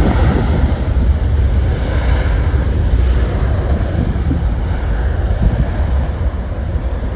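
Jet airliner engine noise: a loud, steady rumble with a hiss, mixed with wind buffeting the microphone.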